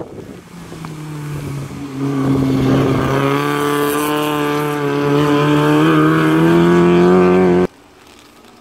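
Honda Civic rally car's engine pulling hard at high revs, its pitch climbing slowly as it accelerates past, then cut off abruptly near the end.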